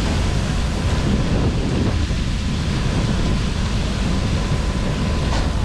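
Wind buffeting the microphone in a heavy, choppy rumble over a steady, loud rushing roar.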